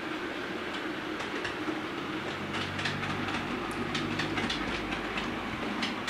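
A train running on rails: irregular clicks of wheels over rail joints over a steady rush, with a low rumble that swells about two seconds in and fades again near the end.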